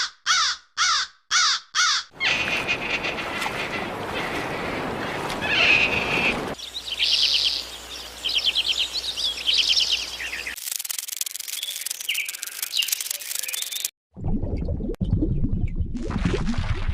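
A run of different animal sounds: harsh, falling bird calls repeated about three times a second for the first two seconds, then chirping and trilling birdsong, a high hiss, and a low buzzing in the last few seconds.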